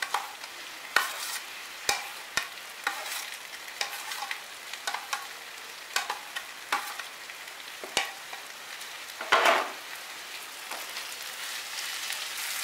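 Boiled banana flower frying in a hot non-stick wok, with a steady sizzle. Irregular clicks and scrapes come from a steel spoon scraping it off a plastic plate and from a wooden spatula stirring it, with one louder scrape about nine seconds in.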